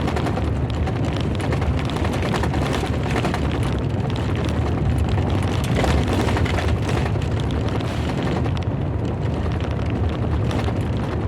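Thunderstorm noise: a loud, steady low rumble that carries on without a break.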